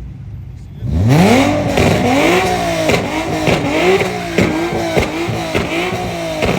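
Mopar car's engine revved hard, starting about a second in, then blipped up and down rapidly, about two revs a second. Sharp exhaust pops sound as the throttle closes: the pops that shoot flames from the exhaust.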